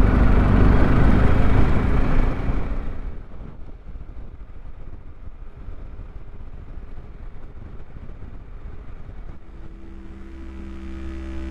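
Motorcycle riding, its engine and wind noise on the rider's microphone, loud for about three seconds before dropping to a faint low rumble. Music with low droning notes fades in near the end.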